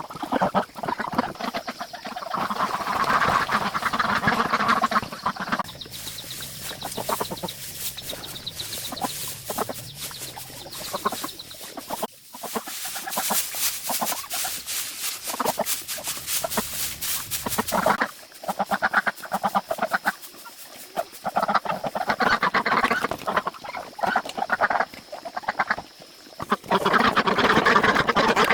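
A flock of ducks quacking, mixed with chicken calls. In the middle stretch a rougher noise of quick rasping strokes takes over, and then the quacking returns.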